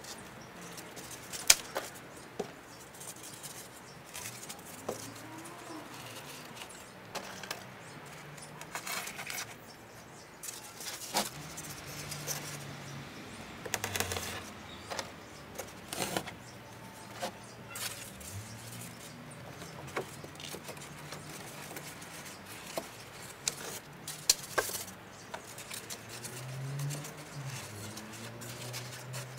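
Styrofoam pieces being handled and fitted: rustling with scattered sharp clicks and light knocks at irregular intervals.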